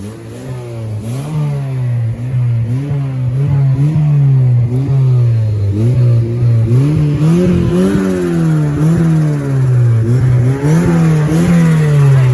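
Car engine being revved over and over, its pitch climbing and dropping about once a second, with the revs falling away near the end.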